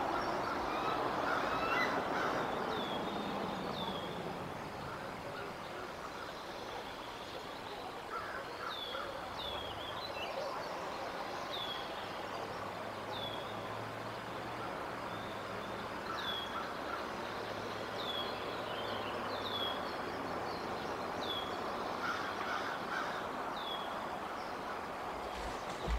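A small bird repeatedly gives short, high, down-slurred calls every second or two, with softer chatter among them. Under the calls is a steady outdoor hiss, and a faint low hum runs through the middle.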